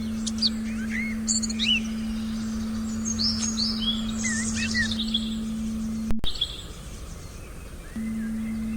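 Forest birdsong, several small birds chirping and calling in quick short phrases, over a steady low sustained tone. The birds and the tone drop out at a brief break just past six seconds; the birds return at once, the tone about two seconds later.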